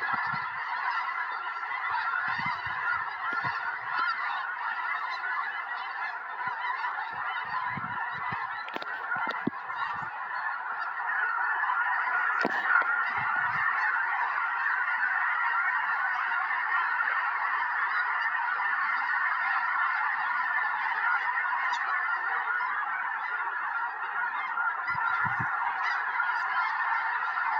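A large flock of snow geese calling all at once: a dense, unbroken din of many overlapping honks.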